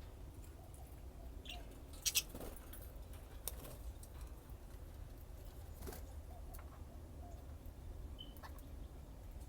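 Pet budgerigars moving about, with a few faint short chirps and light scratching and ticking over a low steady hum. Two sharp clicks about two seconds in are the loudest sounds.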